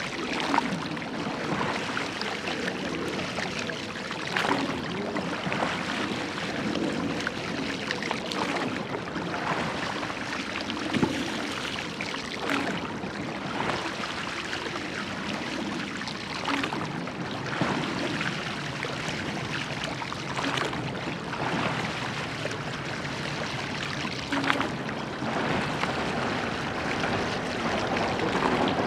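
Water rushing along the hull of a rowed church boat, with the oars catching and splashing in a steady rhythm, about one stroke every four seconds.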